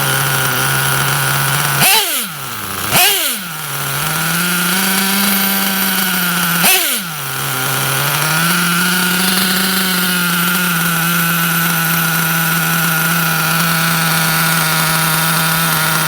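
Track Star .28 nitro engine of a 1/8-scale Kyosho Inferno MP7.5 buggy idling steadily, blipped to high revs three times, about two seconds in, a second later, and again about seven seconds in, each rev rising sharply and dropping back to idle.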